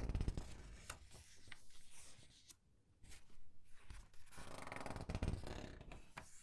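Comic book pages being turned and squeezed: paper rustling and crinkling in two louder swells, one at the start and one about four to five seconds in, with small crackles and ticks of the paper between them.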